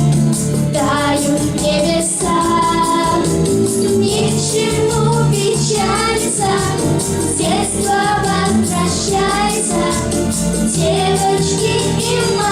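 Children's vocal group singing a pop song with a backing track, the sung notes held and wavering over a steady beat.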